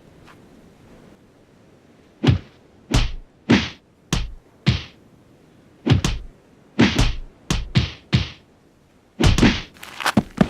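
A series of heavy thuds and thwacks, punch sound effects from a fistfight. About a dozen hits land irregularly, singly and in quick pairs, starting about two seconds in.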